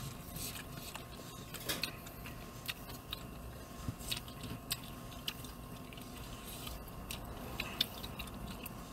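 A person chewing a mouthful of food, with irregular small mouth clicks and smacks over a low steady hum.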